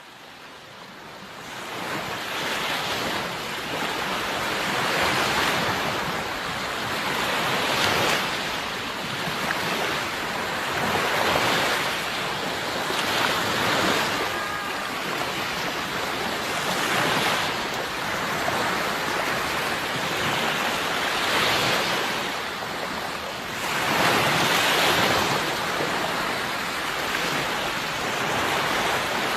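Sea waves washing onto a shore, surging and falling back every few seconds. The sound fades in over the first couple of seconds.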